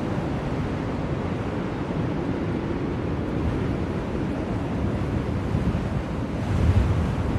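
Steady blizzard wind, a dense rushing noise, swelling in a stronger gust near the end.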